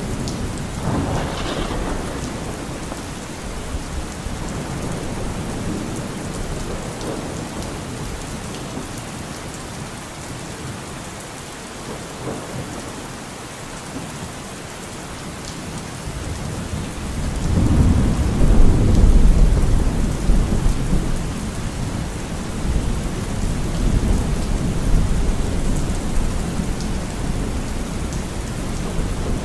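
Steady rain falling, with low rolls of thunder; the loudest roll swells a little past halfway and fades slowly.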